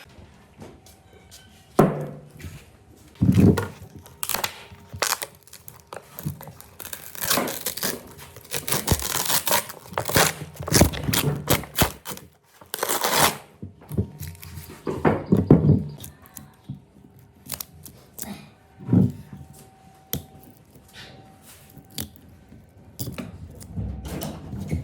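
Irregular knocks and tearing, scraping noises from hand work on wood, coming in uneven bursts.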